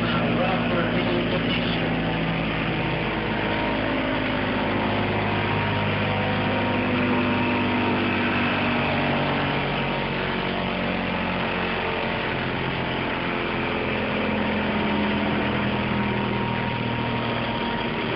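Car-audio subwoofer system playing loud low bass, its notes holding for a few seconds and then shifting pitch, with a dense rattling haze over it.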